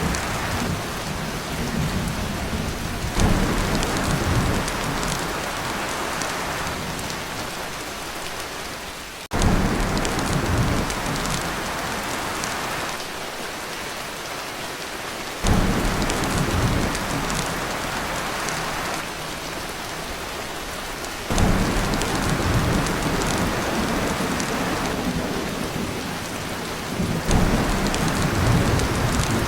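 Heavy, steady rain drumming on a tin roof, with low rolls of thunder. The loudness jumps suddenly several times, about every six seconds.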